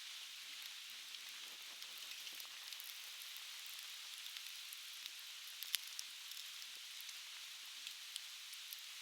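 Conifer firewood crackling, with scattered small pops and one sharp loud pop a little past the middle, over a steady hiss of flowing river water.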